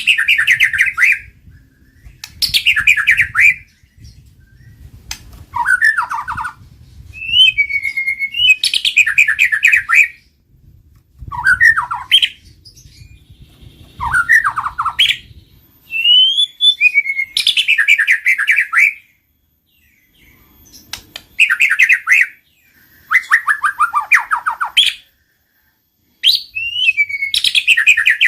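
White-rumped shama (murai batu) singing in short, loud, repeated phrases about every two to three seconds, most of them a sliding whistled note that runs into a fast rattling trill, with a few lower falling notes in between.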